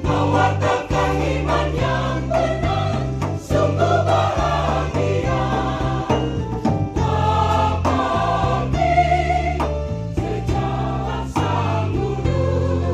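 Church choir singing a hymn in harmony, with steady low bass notes underneath that change every second or two.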